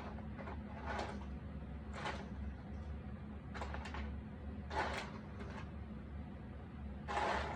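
Cardboard jigsaw puzzle pieces being handled and slid over the puzzle and table: short scraping, rustling sounds every second or so, the longest near the end, over a steady low hum.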